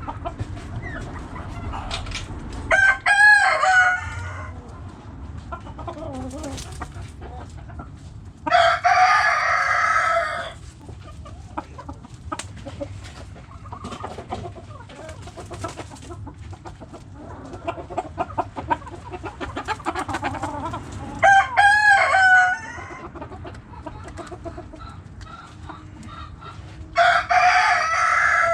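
Backyard roosters crowing, four loud crows each lasting one to two seconds, over the steady low clucking of hens.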